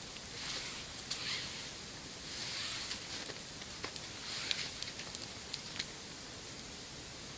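Campfire crackling with scattered sharp pops, along with soft rustling swishes, over a steady hiss.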